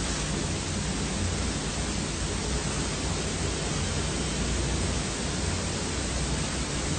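Steady, even hiss with a faint low hum underneath, unchanging throughout and with no distinct events.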